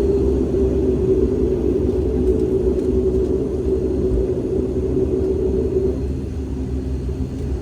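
Dash 8 turboprop's engines and propellers heard from inside the passenger cabin: a steady low drone with a humming propeller tone that fades about six seconds in.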